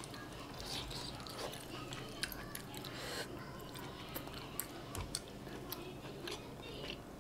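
Close-up chewing of a chive-and-tofu dumpling: irregular wet mouth clicks and smacks as a bite is chewed.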